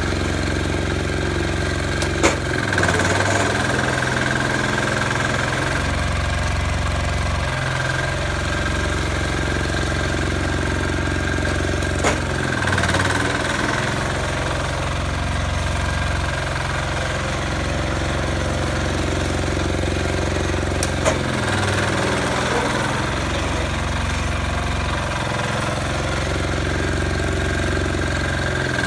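Sears 8XL diesel engine running steadily while plowing snow, its low note shifting every few seconds. Three sharp clicks come through over it.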